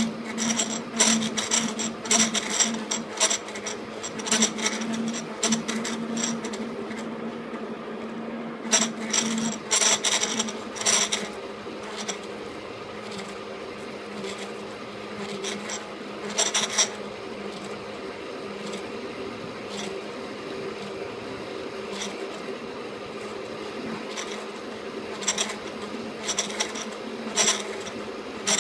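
KART E1N metal lathe running with a steady hum, overlaid by clusters of short scraping bursts from the cutting tool on metal: at the start, about ten seconds in, around sixteen seconds and near the end.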